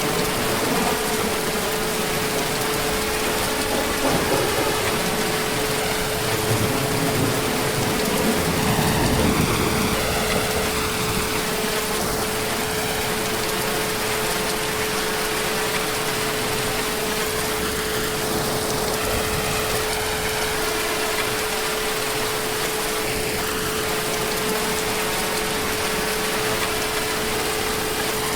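Heavy rain falling steadily, with a low rumble of distant thunder swelling about eight to ten seconds in. A steady low hum runs under the rain throughout.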